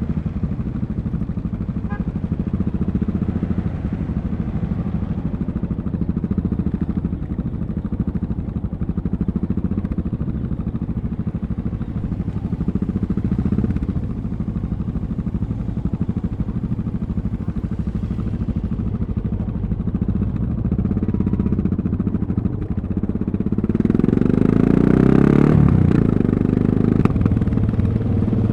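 Yamaha MT-03's 660 cc single-cylinder engine running steadily under way at low revs. About 23 seconds in it gets louder with a short burst of throttle, then settles again.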